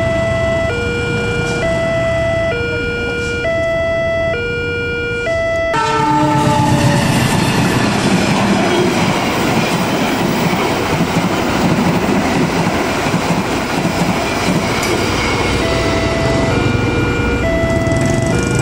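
Level crossing's electronic warning alarm alternating between a high and a low tone, about one tone a second. About six seconds in, a passenger train arrives with a short horn blast falling in pitch, and its passing rumble drowns the alarm for about ten seconds; the two-tone alarm is heard again near the end.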